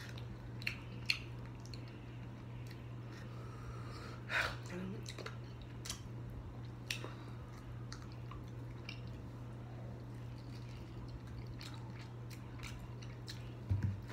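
A person chewing and biting into chicken wings close to the microphone, with scattered short crunchy clicks and wet mouth sounds and a few louder bites, over a steady low hum.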